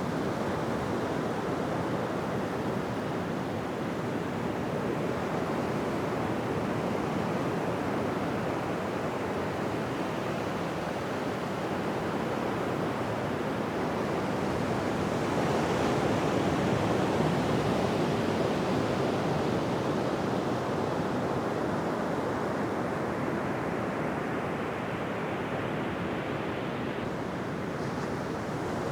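Ocean surf washing onto a beach: a steady rush of waves, swelling louder about halfway through as a bigger wave breaks, then easing back.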